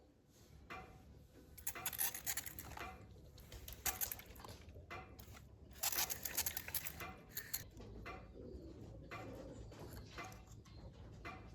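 Metal tools and parts clinking and clattering as they are handled, in irregular bunches of sharp knocks with quieter scraping between.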